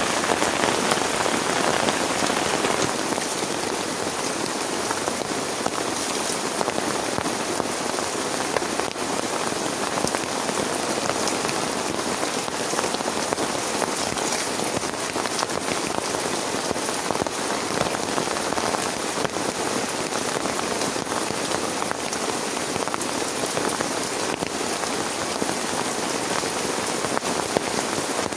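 Heavy rain falling steadily, a dense patter of drops, a little louder for the first few seconds.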